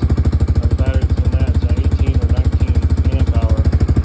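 1998 Yamaha Grizzly 600 ATV's single-cylinder four-stroke engine idling with a steady, even pulsing beat.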